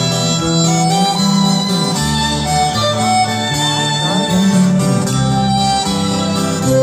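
Instrumental break of a rock song: a violin melody over guitars and bass, with a sliding run about halfway through.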